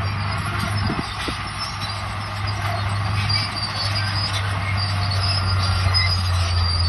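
Crawler bulldozer working: its diesel engine runs steadily under high, scattered metallic squeaks from the steel tracks, with a couple of clanks about a second in.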